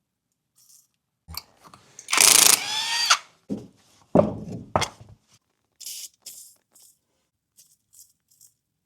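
A power drill whirring for about a second, its pitch rising as it spins up, among clicks and clanks of fasteners and panels being removed, with a few short, high hissing bursts later on.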